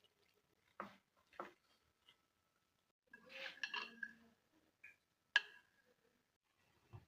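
Kitchen utensils and dishes knocking and clinking: a couple of light knocks, a short stretch of clatter, then one sharp ringing clink.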